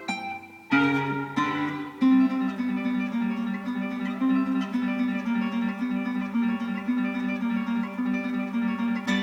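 Acoustic guitar music, strummed and plucked, playing from a car's FM radio. It comes in after a brief quieter moment just under a second in, as the tuner settles on a station.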